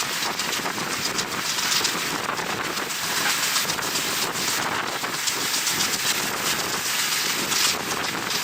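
Wind buffeting the microphone of a camera held at a moving train's window, a steady loud hiss that gusts up and down, over the running noise of the passenger train.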